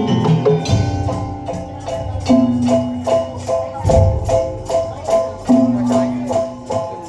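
Daul (Madurese ul-daul) percussion band playing: quick, evenly repeated pitched metallic notes over drum strokes and jingles, with a held lower tone that comes in twice.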